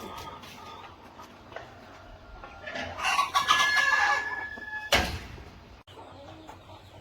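Chickens clucking, with a rooster crowing loudly from about three seconds in: one long held note. A sharp knock cuts in at its end.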